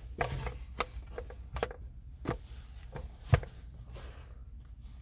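Handling noises as ductwork is moved and repositioned by hand: scattered light clicks and rustles, with one sharper knock about three and a half seconds in.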